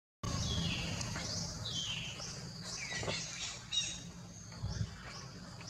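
Wild birds calling: a series of short whistles that slide downward in pitch, mixed with higher chirps, over a low steady background rumble.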